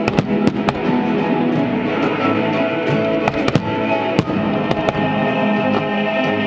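Fireworks bursting overhead, a dozen or so sharp bangs at irregular intervals, over loud music with sustained tones that runs underneath.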